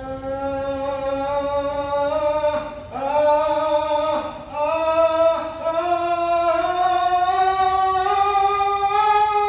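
A single singer's voice holding a sustained vocal-exercise tone that slides slowly upward in pitch, broken briefly about 3 and 4.5 seconds in before carrying on higher.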